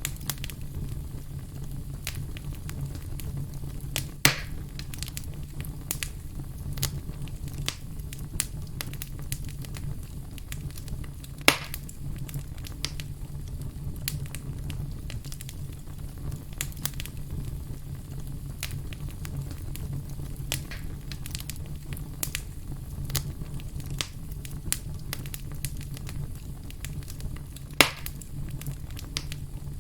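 Wood fire in a fireplace burning with a steady low rumble and constant small crackles. Three louder sharp pops stand out, about 4 seconds in, about 11 seconds in, and near the end.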